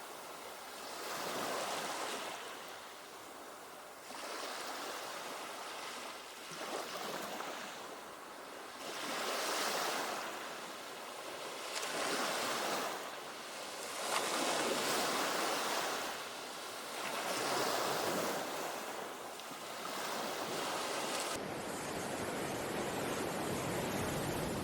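Ocean surf breaking on a shore, a noisy wash that swells and falls back about every two to three seconds. Near the end it changes suddenly to a steadier, deeper rush of surf.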